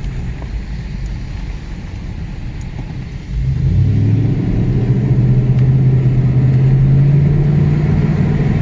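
Pickup truck engine and road noise while driving. About three seconds in, the engine gets louder and its pitch climbs slowly as the truck accelerates.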